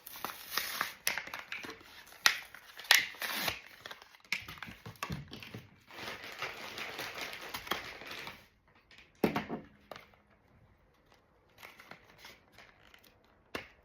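Packaging being crinkled and torn open by hand, with sharp clicks and taps mixed in; after about eight seconds it drops to quieter, scattered handling clicks.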